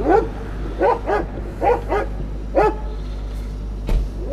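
Security guard dog barking: about six sharp barks over the first three seconds, several in quick pairs. A short knock follows near the end.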